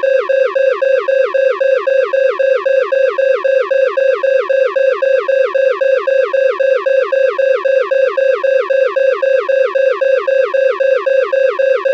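Loud electronic alarm: a steady high tone overlaid with a quick falling sweep that repeats evenly about four times a second, pulsing without a break.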